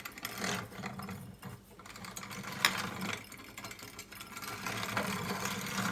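Hand-cranked steel-plate grain grinder being turned, grinding flaxseed between tightly set plates: a continuous mechanical grinding rattle, with one sharp click about two and a half seconds in.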